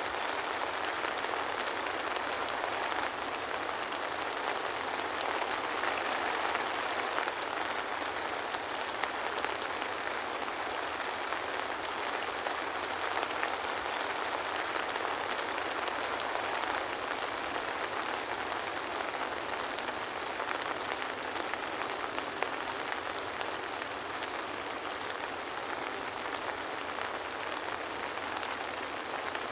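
Steady soft rain falling, an even hiss with faint scattered drop ticks and no thunder.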